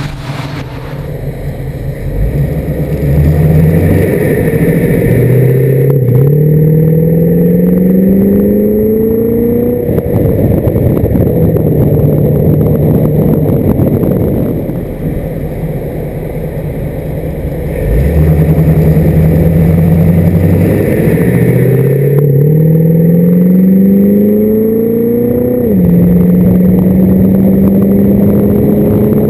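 1979 Pontiac Trans Am's 6.6-litre V8 pulling hard on the road, its engine note climbing in pitch, easing off, then climbing again. Near the end the pitch drops suddenly as the transmission upshifts, and the engine settles into a steady cruise.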